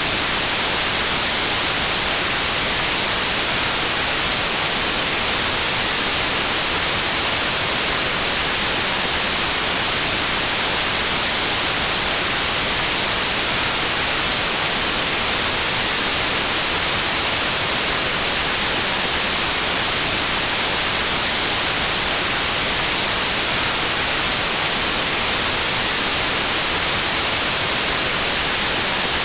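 Steady white noise: an even, unchanging hiss with no rhythm or texture, brightest in the treble.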